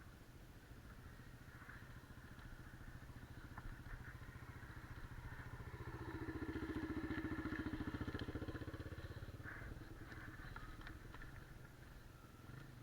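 Dirt bike engine running steadily at a distance. It grows louder for a few seconds in the middle, then falls back.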